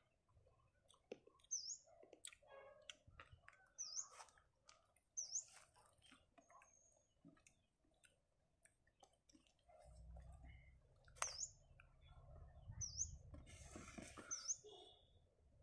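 A small bird chirping faintly: short chirps, each dipping then rising in pitch, repeated every second or two. Soft irregular clicks run alongside, and a low rumble comes in about ten seconds in.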